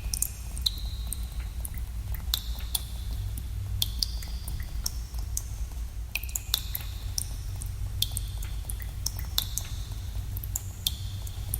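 Water drops dripping irregularly in a cave, several a second at times, each a sharp plink with a brief ringing tone, over a steady low rumble.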